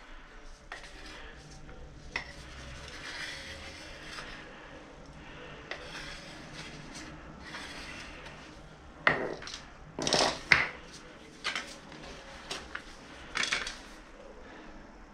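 A putty knife scraping and clinking as filler is scooped, mixed and spread over a fibreglass patch: steady scraping at first, then several sharp, louder scrapes and clinks after about nine seconds and one more near the end.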